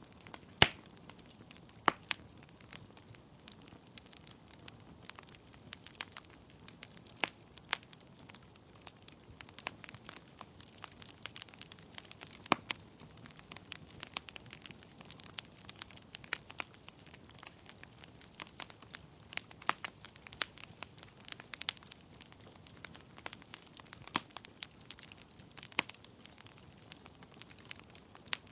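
Wood fire burning in a fireplace: burning logs crackling and popping at irregular intervals over a low, even hiss of flames, with the sharpest pop about half a second in.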